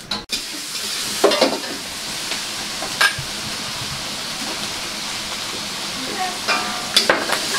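Food sizzling in a hot wok over a gas burner as it is stir-fried: a steady frying hiss, with a few short knocks from the spatula.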